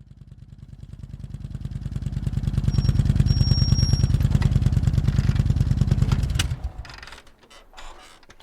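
Motorcycle engine running with a fast, even firing pulse, growing louder over the first few seconds, holding, then dying away about six and a half seconds in. A few sharp clicks and faint rattles follow near the end.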